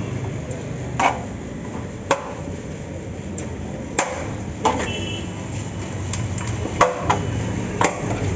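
Metal utensils at a street food stall clanking: about seven sharp, ringing knocks at irregular intervals, like a ladle or spatula striking a metal pot, over a steady low background hum.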